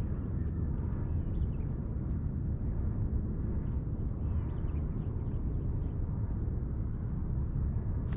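Steady low outdoor rumble with a thin, continuous high-pitched whine above it and a few faint chirps.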